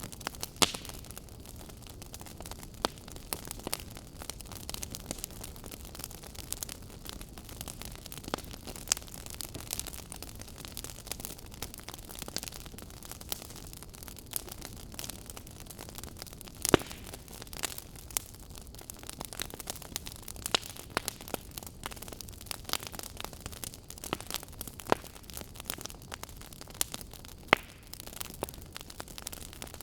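Fire crackling in a fireplace: a steady hiss broken by irregular sharp pops and snaps, the loudest pop just past the middle.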